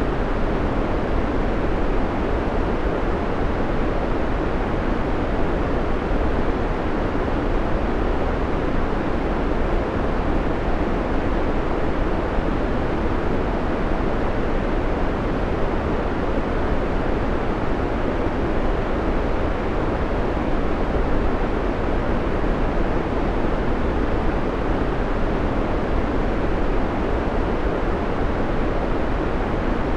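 Steady white noise: an even, full hiss weighted toward the low end, with no change or break.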